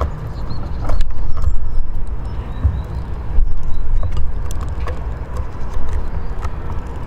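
A loud, uneven low rumble throughout, with scattered sharp clicks and brief high chirps of Eurasian siskins at a seed-filled bird table.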